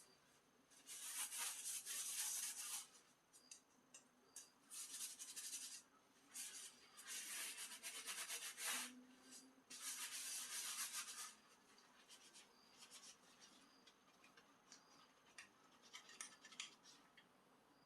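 Dishes being scrubbed in five rough rubbing bouts of one to two seconds each, then only faint light clinks and ticks for the last several seconds.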